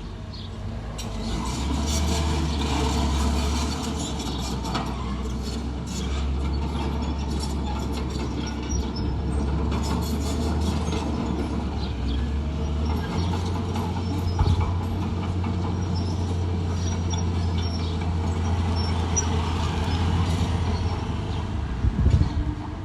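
Komatsu D41P crawler bulldozer working: its diesel engine drones steadily under load while the steel tracks clank and rattle. The engine note shifts about halfway through, with a sharp knock just after and a few more knocks near the end.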